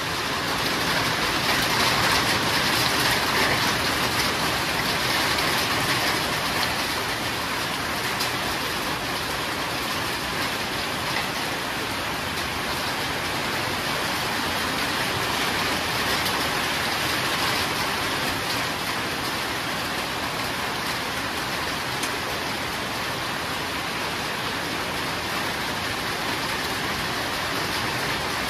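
Heavy rain falling steadily, a dense even hiss of drops on surfaces, a little louder for the first few seconds.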